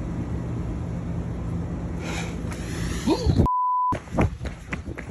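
A steady low rumble with a hum. About three and a half seconds in it is cut off by a half-second censor bleep, a single pure tone, followed by a quick run of sharp knocks and clicks.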